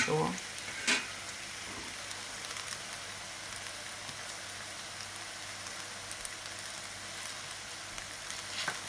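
Boiled potato gnocchi frying in hot olive oil in a pan over high heat: a steady sizzle with scattered small pops and crackles.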